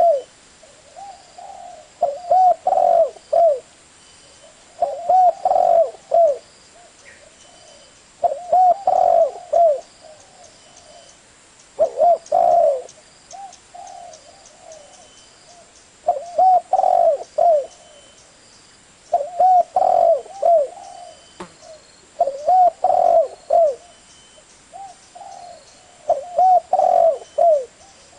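Spotted dove (tekukur) cooing: a phrase of several short, low coos repeated about every three seconds, with pauses between phrases.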